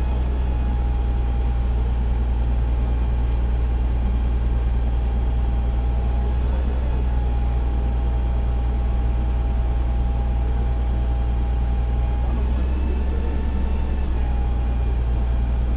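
Fire engine's diesel engine running steadily, a deep constant drone with a thin steady whine above it that wavers slightly a few times.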